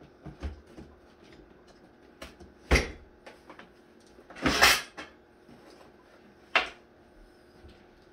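A few separate knocks and clunks of objects being handled and set down, with a longer, louder clatter about four and a half seconds in.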